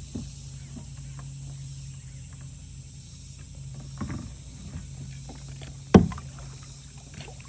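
Kayak paddling: small splashes and light clicks of the paddle working the water, with one sharp knock about six seconds in.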